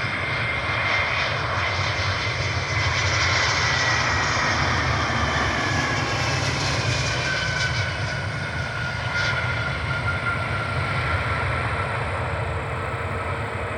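Airbus A320 jet airliner flying past on its arrival, a steady engine rush with a high whine that slowly falls in pitch.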